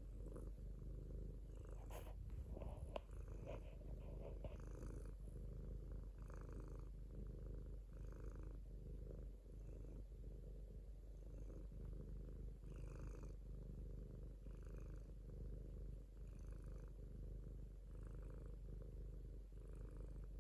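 Domestic cat purring steadily, the purr swelling in a regular rhythm about every second and a half.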